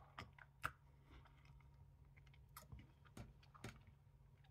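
Faint wet mouth clicks and smacks of a person chewing a mouthful of thick, sticky peanut butter, about half a dozen scattered clicks with the sharpest one in the first second. The clicking comes from the claggy peanut butter sticking to the tongue and palate.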